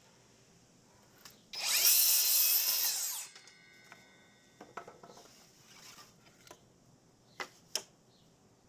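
Power drill running for about two seconds, likely driving a screw into the wooden screen frame, winding down as it stops. Two sharp clicks follow near the end.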